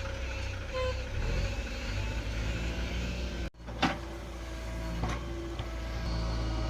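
Diesel engine of a backhoe loader or tractor running steadily. The sound cuts out for an instant just past the middle, followed at once by a single sharp knock, the loudest moment, before the engine runs on.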